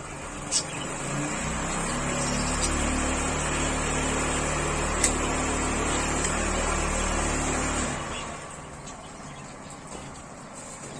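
Steady motor noise, a low hum with a hiss, that builds up about a second and a half in, holds for about six seconds, then fades away.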